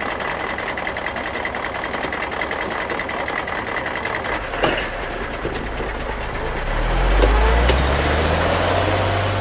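Garbage truck engine running, with a steady high-pitched tone over it for the first few seconds and a knock partway through. The engine then revs up, deeper and louder, toward the end.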